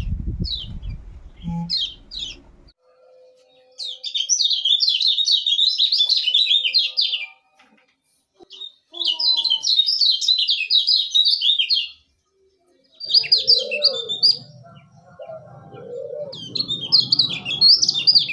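Kecial kuning (yellow white-eye) giving rapid, high 'ciak ciak' chirping in bursts of about three seconds, with short pauses between them.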